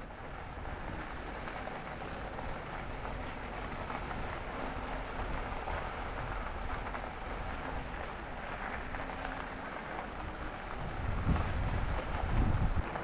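Steady rolling noise of an e-bike ride: tyres running on the trail surface with wind on the microphone, with low wind buffeting swelling near the end.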